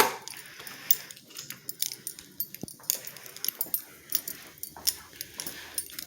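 Keys jangling and clinking with small irregular clicks, several a second.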